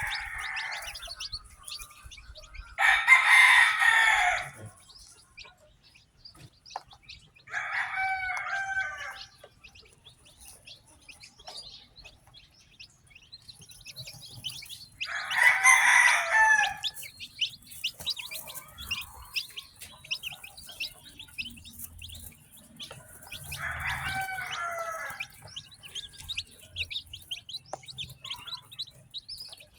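Newly hatched chicks peeping continuously, with a rooster crowing four times, each crow about a second and a half long and louder than the chicks.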